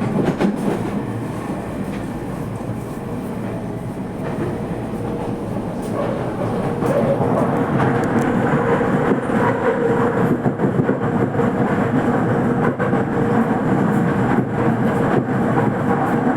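Toei Mita Line subway train running, heard from inside the car: a steady rumble of wheels on track. About six seconds in it grows louder and a steady hum joins it.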